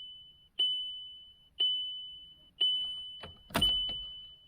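Car dashboard warning chime with the ignition on: a single high ding repeating about once a second, each one dying away, four times. A sharp click comes just before the last ding.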